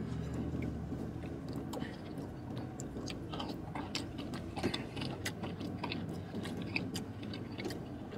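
A man chewing pasta close to the microphone, with many small clicks and light scrapes from a plastic fork in a plastic takeout tray, over a steady low hum in the car's cabin.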